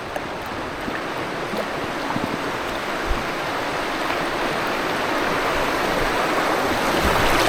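River rapids rushing, an even wash of white water that grows steadily louder as the kayak nears the drop.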